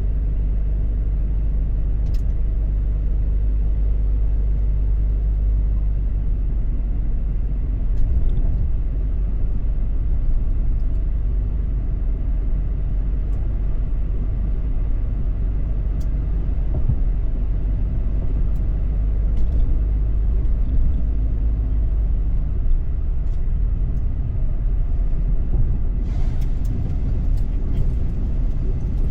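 Steady low rumble of a car driving on the road, road and engine noise, with a few faint clicks. A brighter hiss joins a few seconds before the end.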